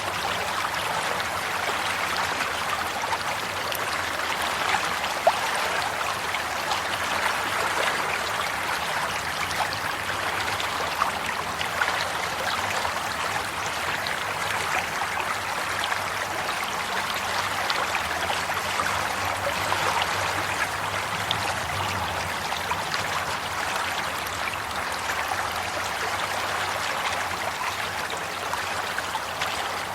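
Water flowing and trickling steadily, a stream-like babble of small splashes.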